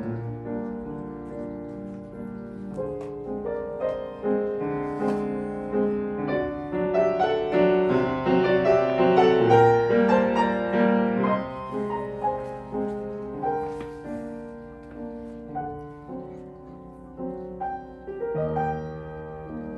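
Solo piano playing a slow, lyrical piece, growing louder toward the middle and easing back to a softer passage near the end.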